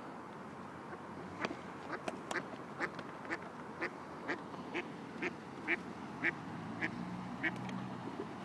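A duck quacking close by: a run of about a dozen short quacks, about two a second, starting a second and a half in and stopping near the end.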